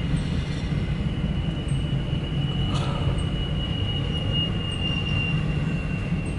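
CSX intermodal freight train rolling past, the cars giving a steady low rumble with a thin, steady high-pitched wheel squeal over it and a single click about three seconds in.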